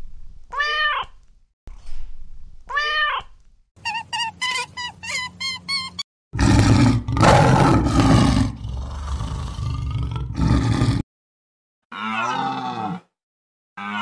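A domestic cat meows twice, then gives a quick string of short mews. A lion then roars loudly for several seconds, and near the end another animal gives one short, lower call.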